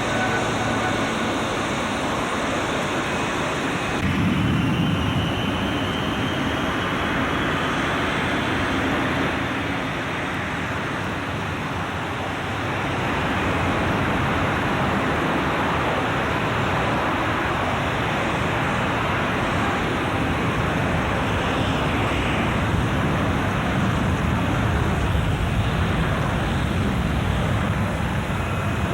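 Jet airliner engines running, a steady loud rush with a faint rising whine. The sound steps up about four seconds in and dips briefly around ten seconds in.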